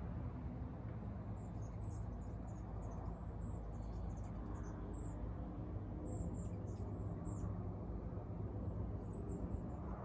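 Small songbirds chirping in quick, very high-pitched notes, in a run of calls lasting several seconds and a short burst again near the end, over a steady low rumble.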